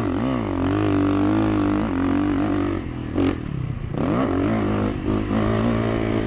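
Motocross dirt bike engine revving as it is ridden, its pitch rising and falling with the throttle. It falls off briefly with a short sharp burst about three seconds in, then picks up again.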